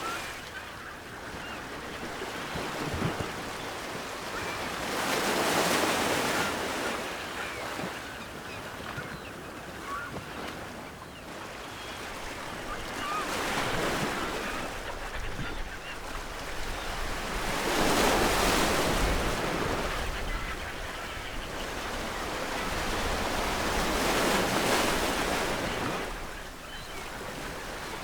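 Ocean waves breaking on a shore: a continuous surf wash that swells into four larger breakers and falls back between them.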